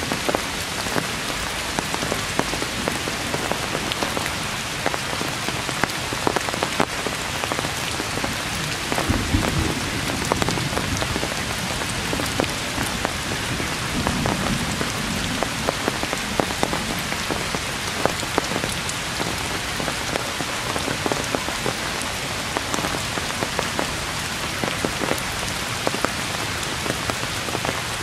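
Heavy rain falling steadily on forest leaves and branches, with many sharp drop impacts close by and a soft low rumble twice in the middle.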